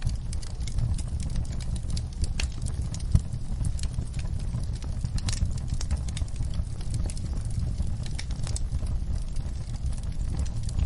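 Wood fire burning in a fireplace: a steady low rumble of flames with irregular crackles and pops, one sharper pop about three seconds in.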